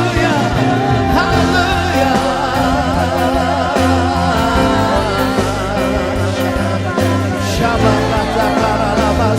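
Live church worship band playing, with singing over keys, bass and drums.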